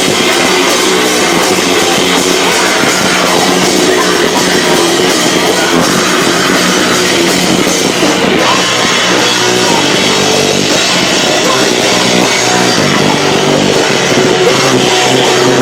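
Live rock band playing loud, with drum kit and guitars, heard through an overloaded camcorder microphone that distorts the sound.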